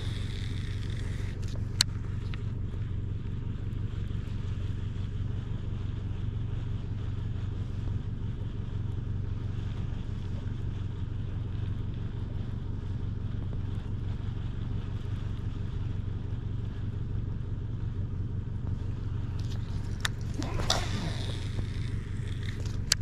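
Boat motor running steadily with a low, even hum. There is a single sharp click about two seconds in and a brief swishing noise near the end.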